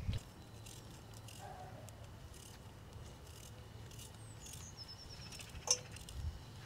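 Quiet outdoor background with faint high bird chirps and a short trill, and a single light click near the end.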